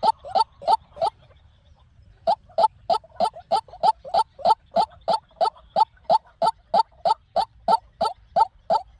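White-breasted waterhen calling: a long series of short, clipped notes at about three a second, broken by a pause of about a second near the start before the series resumes.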